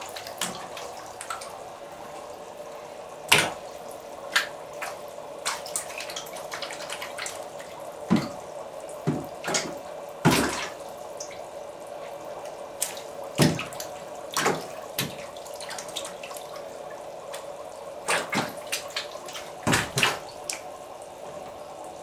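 Water splashing and dripping in irregular short bursts as a white-winged scoter swims and dives after minnows in a tub, over a steady hum.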